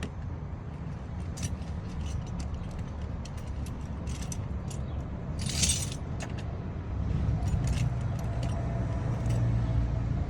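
Metal sockets and hand tools clinking and rattling while being sorted through in search of the right size, with many short clicks and a longer clatter about halfway through, over a steady low rumble.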